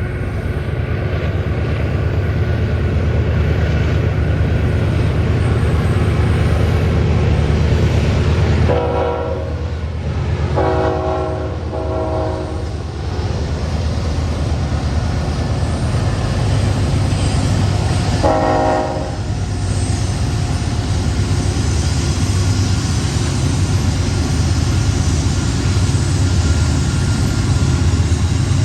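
Five BNSF GE diesel locomotives working hard up a steep grade, with a steady heavy low rumble. Over it the locomotive air horn sounds a salute: a longer chord about nine seconds in, two short ones right after, and one more blast about halfway through.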